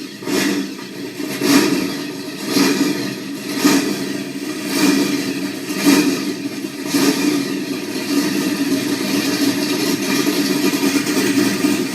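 Chevrolet Chevelle SS V8 just fired up, revved in short throttle blips about once a second, then settling into a steady idle for the last few seconds.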